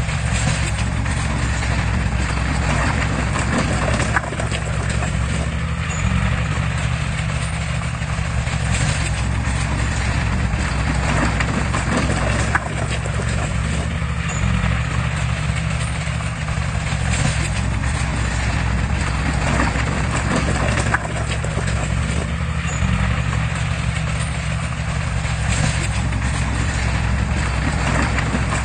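Diesel engine of heavy earthmoving equipment running steadily under load, with a continuous metallic clatter and a few sharp knocks.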